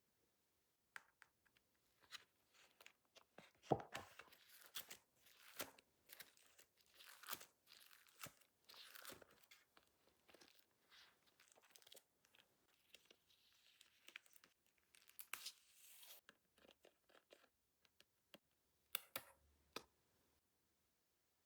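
Nail art stickers being peeled off their backing sheet and handled: irregular crackly tearing and rustling, the sharpest crackle about four seconds in, with a last short cluster near the end.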